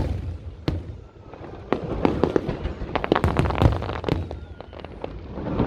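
Fireworks going off: a single bang, a short lull about a second in, then a dense run of sharp bangs and crackles through the middle, with more bangs near the end.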